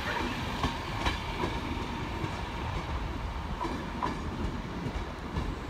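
Enterprise passenger train with a class 201 diesel locomotive departing past the platform: a steady rolling rumble with irregular wheel clicks over the rail joints. It fades slightly near the end as the locomotive draws away.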